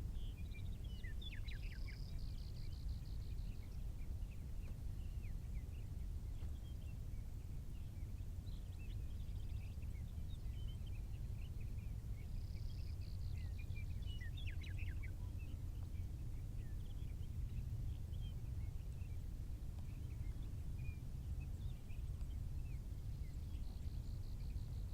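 Wild birds chirping and singing over a steady low rumble. One song ending in a buzzy trill recurs about every eleven seconds, three times in all.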